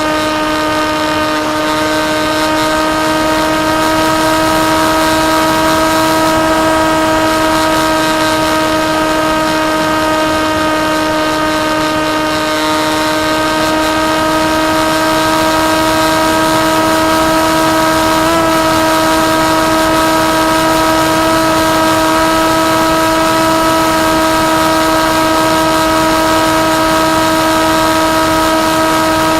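Electric motor and propeller of a KT Wing flying wing whining at one steady pitch at constant throttle, with a rush of wind noise underneath; the pitch flickers briefly about two-thirds of the way through.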